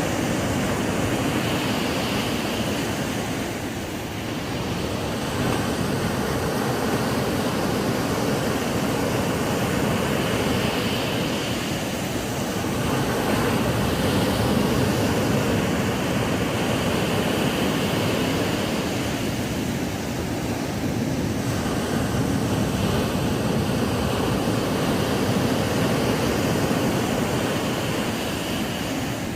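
Ocean surf breaking on a sandy beach: a continuous rush of waves that swells and eases about every eight seconds.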